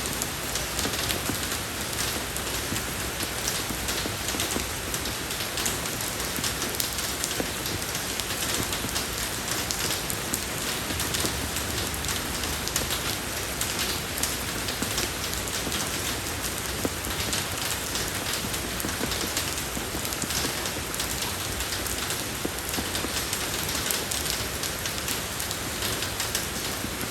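Steady rain falling on a road surface, an even hiss dense with the fine ticks of individual drops.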